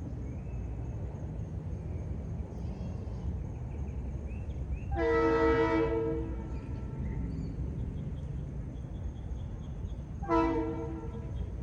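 Locomotive horn of an approaching train: one long blast about five seconds in and a shorter one near the end, over a steady low rumble, part of a horn signal for a grade crossing.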